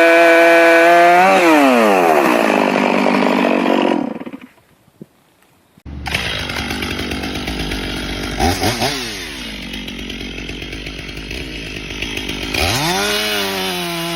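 Stihl MS 460 two-stroke chainsaw held at steady high revs, then revs falling away as the throttle is released. After about two seconds of near silence, a chainsaw runs again. Its revs dip and rise a couple of times, then climb sharply near the end.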